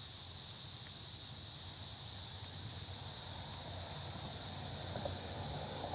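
Steady high-pitched insect chorus, with a few faint crackles from a small fire of dry leaves and twigs. A low rumble comes in about halfway through.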